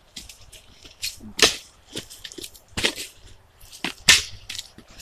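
Dry wooden sticks being snapped for firewood: a string of sharp cracks and splintering snaps, the loudest about a second and a half in and about four seconds in.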